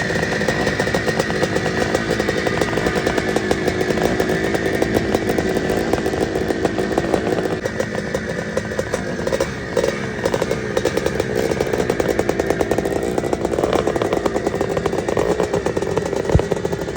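Vintage two-stroke dirt bike engines running and revving, their pitch rising and falling.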